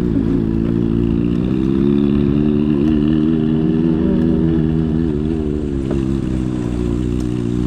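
Motorcycle engine running steadily while riding, its pitch wavering slightly with the throttle.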